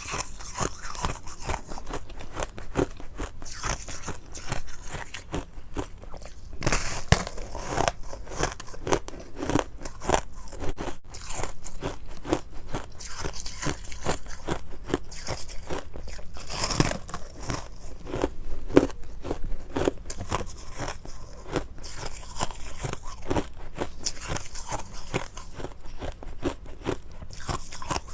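Ice being bitten and chewed close to the microphone: rapid, continuous crunching of hard ice chunks, with a few louder bites.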